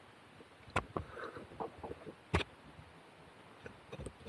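A few short, light clicks and knocks at a low level, the two clearest about a second and a half apart, with faint scattered ticks between.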